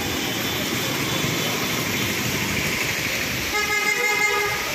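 Heavy rain pouring steadily onto a street, with a vehicle horn sounding near the end for about a second.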